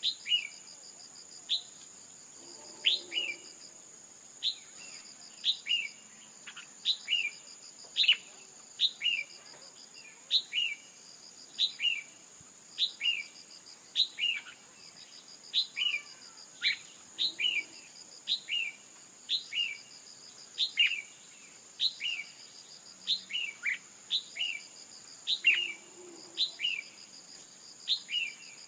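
Female red-whiskered bulbul calling over and over: short paired notes, each a quick downward chirp followed by a lower one, repeated about once a second. A steady, high insect-like trill runs underneath.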